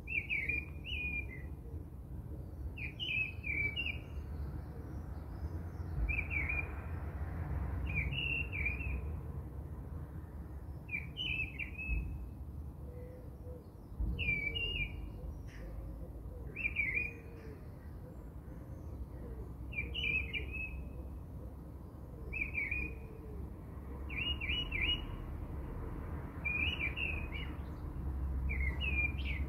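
A bird repeating a short chirping phrase about every two seconds over a steady low background noise.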